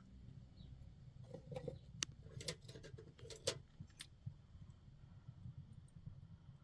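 A scatter of faint clicks and light taps, about ten in the first four seconds, then quieter.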